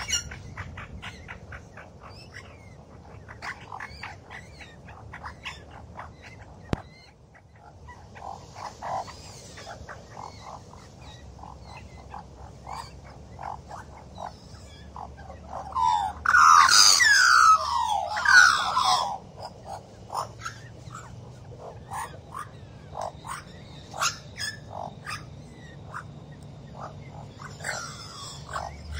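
Australian magpie song: a run of short chirps and gurgling notes, with a loud burst of warbling, falling notes about two-thirds of the way through.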